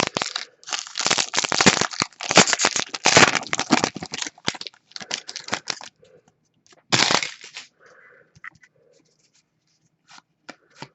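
Foil wrapper of a hockey card pack being torn open and crinkled: a dense run of rips and rustles for about six seconds, then one more short rustle about seven seconds in and a few faint clicks.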